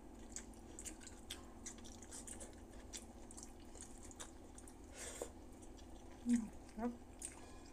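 A person eating rice and pork sinigang with the fingers: quiet wet chewing and small mouth clicks and smacks, with two short rising vocal sounds a little after six seconds in.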